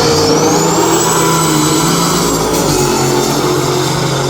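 Vehicle engine running hard under acceleration, with a high whine that rises in pitch during the first second and then holds steady.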